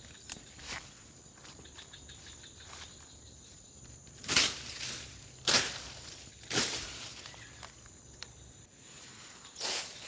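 Footsteps crunching through undergrowth, a few separate steps roughly a second apart from about four seconds in. A steady high insect drone runs underneath.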